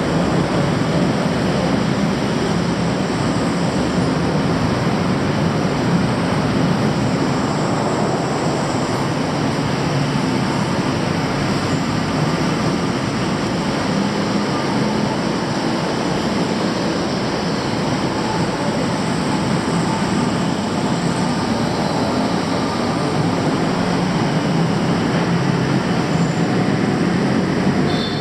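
Loud, steady rumble of city traffic, a dense, unbroken wash of noise with no let-up.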